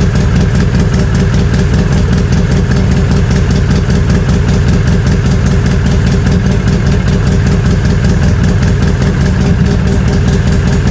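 Four-wheeler (ATV) engine idling steadily just after a cold start, its speed holding even throughout.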